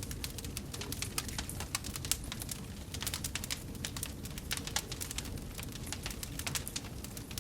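Wood fire in a fireplace crackling, with many irregular sharp pops and snaps over a low steady rumble of the flames.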